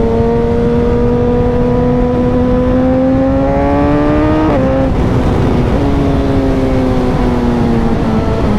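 Suzuki motorcycle engine pulling under throttle, its note rising slowly, then dropping sharply about four and a half seconds in and easing down gradually, over steady wind rush.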